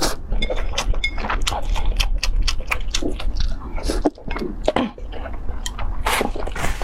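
Close-miked eating: a person biting and chewing food, with many short crunchy clicks and wet mouth sounds, and a denser crunchy burst about six seconds in.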